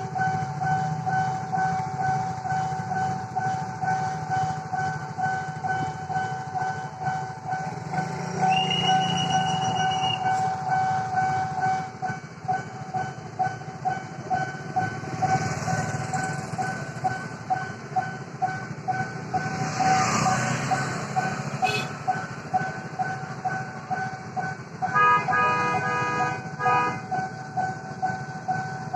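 Railway level-crossing warning bell ringing in steady repeated dings, about two a second, while a train passes with a rising rush of noise mid-way. A train horn sounds briefly near the end.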